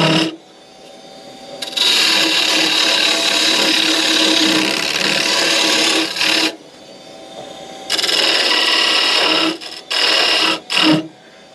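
Wood lathe running, with a turning tool held against the spinning wood in two long passes of several seconds each and two short touches near the end; between passes only the steady hum of the lathe is heard.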